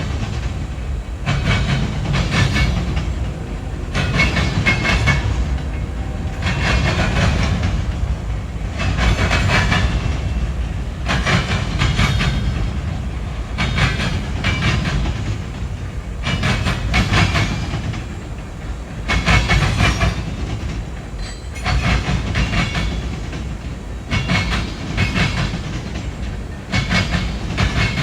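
Freight train cars rolling past: a steady low rumble with wheels clattering over the rail joints in repeated bursts every couple of seconds.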